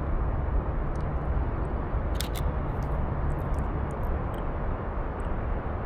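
Steady low rumble of wind buffeting the microphone, with two quick sharp clicks close together about two seconds in.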